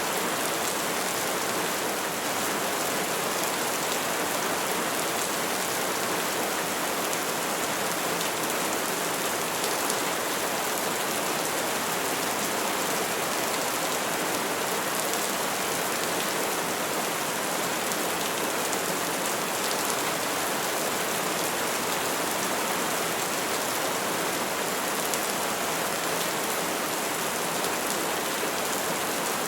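Steady rainfall: an even hiss of rain falling on trees, with faint scattered drips and no thunder.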